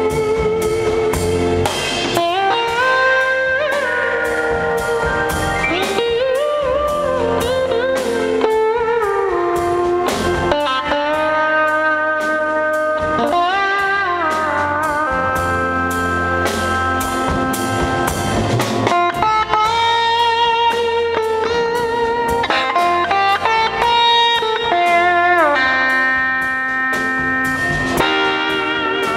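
Live band jam: an electric guitar plays a lead line full of sliding, gliding notes over a drum kit and bass.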